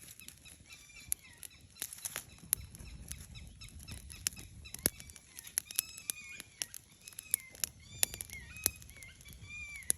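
Birds chirping in many short repeated chirps, among scattered sharp clicks and a steady high-pitched hum.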